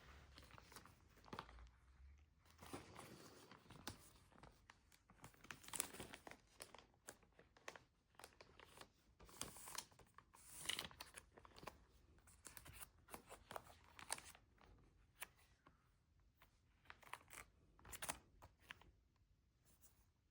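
Faint, irregular rustling and crinkling of CD album packaging being handled and torn open, with scattered small ticks and taps.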